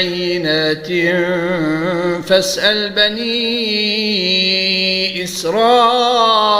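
A man's solo voice reciting the Qur'an in measured, melodic murattal style. He draws out long held notes that waver in pitch, with brief breaths between phrases.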